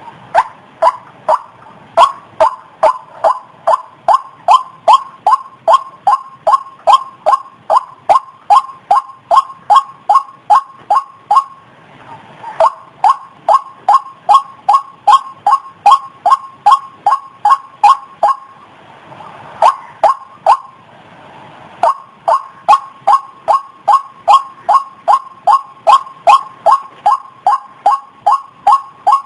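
White-breasted waterhen calling: a single short note repeated monotonously, about three a second, in long runs broken by a few short pauses.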